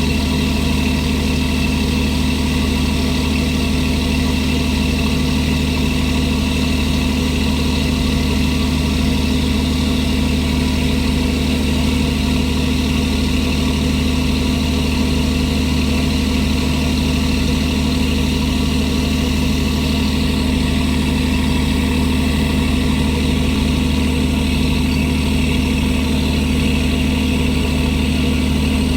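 Steady drone of a squid fishing boat's diesel machinery running at a constant speed, a low hum with several steady tones that does not change.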